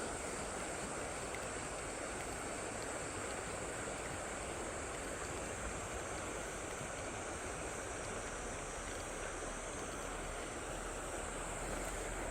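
Steady rush of river water, the river swollen after a rain shower, with a steady high hum of insects over it.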